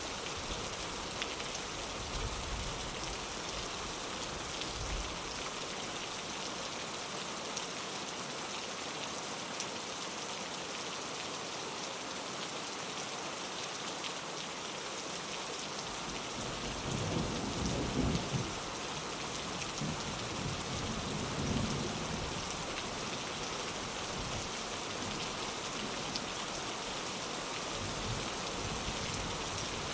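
Steady rain falling on a window, with a low rumble of thunder a little past halfway that rolls on for several seconds before fading back under the rain.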